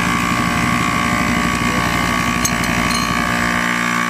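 Motorcycle engine running with a rapid low pulsing beat, settling into a smoother, steadier idle about three and a half seconds in.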